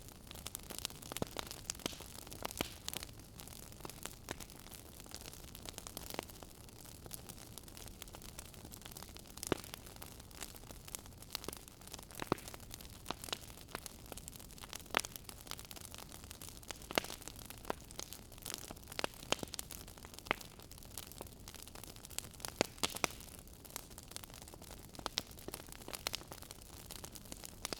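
Wood fire burning in a fireplace, crackling: irregular sharp pops and snaps over a soft, steady hiss.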